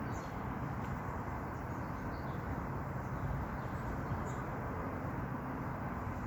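Steady outdoor background rumble with a few faint, high, short chirps.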